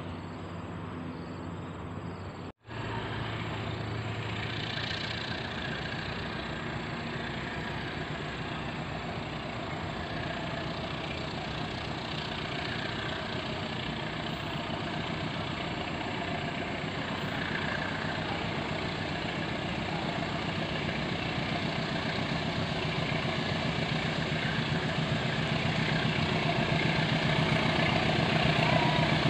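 Diesel train locomotive engine running as the train approaches, growing steadily louder. The sound cuts out for a split second about two and a half seconds in.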